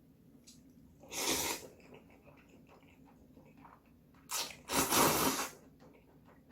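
A person slurping bibim ramyun noodles, loudly, twice: a short slurp about a second in, and a longer one just past the middle with a brief catch before it.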